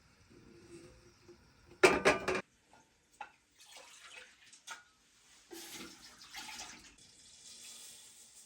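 Kitchen-work sounds: water running and splashing, with small clinks of dishes and pots. A short, loud burst comes about two seconds in.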